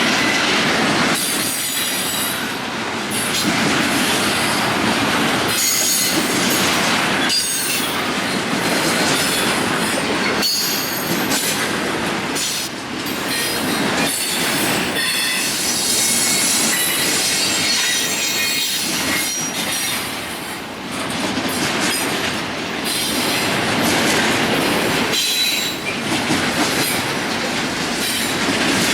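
Union Pacific freight train cars rolling past, steel wheels clacking over the rails with high-pitched wheel squeal coming and going.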